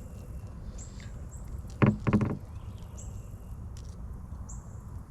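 Two hollow knocks against the canoe's hull, close together about two seconds in, each ringing briefly. A steady low rumble and short high chirps repeating about once a second run underneath.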